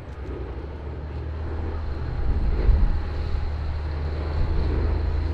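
Boeing B-17G Flying Fortress's four Wright Cyclone radial engines droning steadily in the air, growing louder over the first couple of seconds and then holding.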